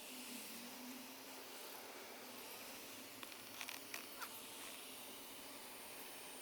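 Faint steady hiss of room tone, with a few light clicks and taps about three and a half to four seconds in.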